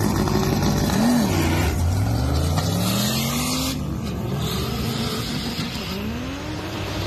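Cadillac CTS-V's V8 launching hard off a drag-strip start line. The engine note wobbles and sags about a second in as the launch bogs badly, then the pitch climbs, breaks off at a gear change near the middle and climbs again as the car pulls away.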